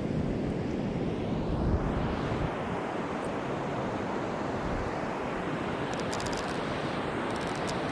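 Steady rushing of ocean surf breaking on the shore, mixed with wind buffeting the microphone.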